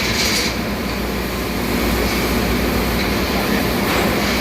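Steady, loud machinery noise of a ship's engine room: a constant low hum under an even hiss, with no strikes or changes in pace.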